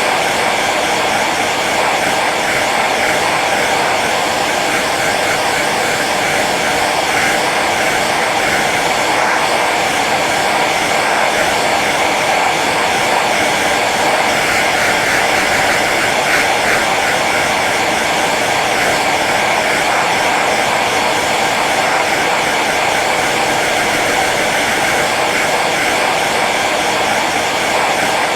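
Hair dryer running steadily on its low setting: an even rush of blown air over the motor's faint steady hum.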